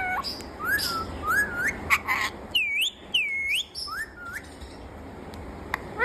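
Indian ringneck parakeet giving a string of short whistled calls, most gliding upward, with two longer dipping whistles about halfway through.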